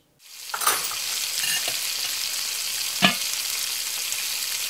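Food sizzling and frying in a hot pan, a steady hiss that fades in at the start, with one sharp knock about three seconds in.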